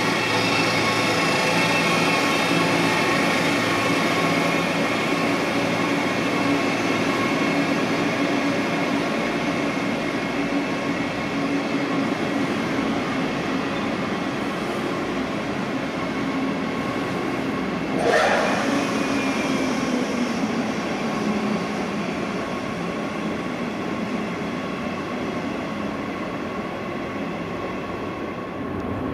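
Red double-deck regional train running through an underground station: a steady rumble and whine of wheels and motors that fades slowly as it moves away, with one sharp clank about eighteen seconds in followed by a brief falling tone.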